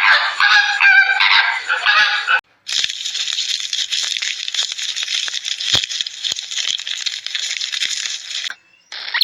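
A flock of domestic fowl calling: a couple of seconds of separate calls, a brief cut, then about six seconds of dense, continuous chatter from many birds at once.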